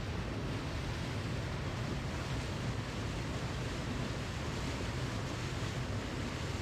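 Waterfall: falling water rushing steadily, an even, unbroken noise with most of its weight low down.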